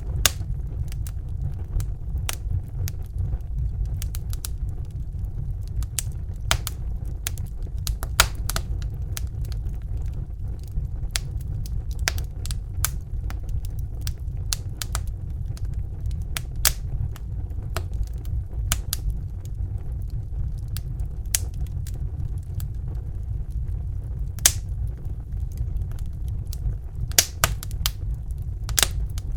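Crackling fire: irregular sharp pops and snaps, one or two a second, with a few louder ones, over a steady low rumble.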